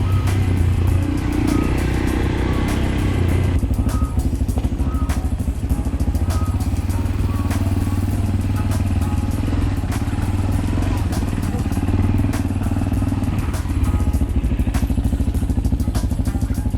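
Fuego Tekken 250 dirt bike engine running at a steady low speed while being ridden, with scattered clicks and knocks.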